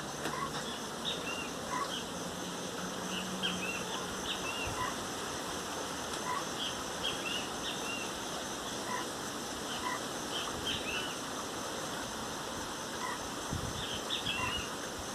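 Great kiskadees (bem-te-vi) calling: short, sharp chirped notes in small clusters every few seconds, over a steady high-pitched drone and hiss.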